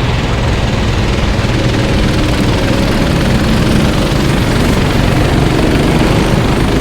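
Racing kart engines running steadily on the track.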